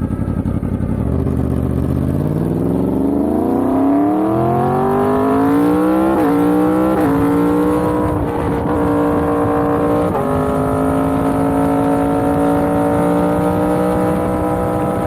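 Yamaha MT-10's 998 cc crossplane inline-four engine accelerating hard through the gears, its pitch rising for several seconds, then three quick upshifts that briefly drop the revs, after which it holds a steady cruising note.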